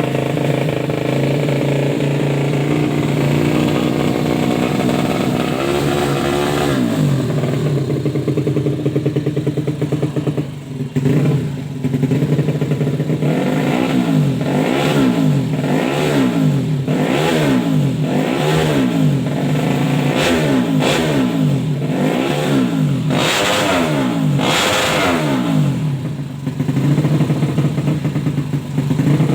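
Yamaha Jupiter 130 motorcycle engine running steadily, revved once about six seconds in, then blipped hard over and over, about once a second, for roughly a dozen revs before settling back to idle near the end.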